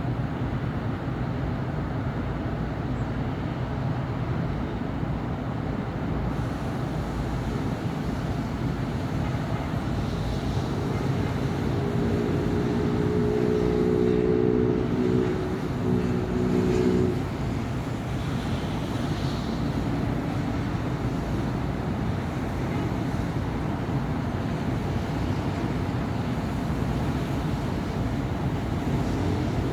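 Steady city-avenue traffic noise from passing cars and buses. From about 11 s to 17 s one vehicle's engine hum stands out over it, then cuts off suddenly.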